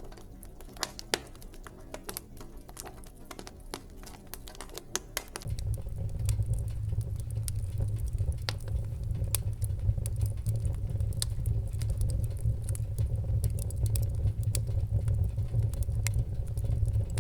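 Wood fire crackling in a fireplace, with scattered sharp pops and snaps. About five seconds in, a loud, steady low rumble sets in underneath and stays.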